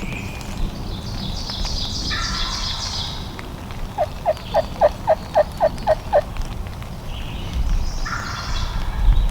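A run of about nine turkey yelps, about four a second, a few seconds in. Songbirds chirp high-pitched phrases before and after, over a low wind rumble.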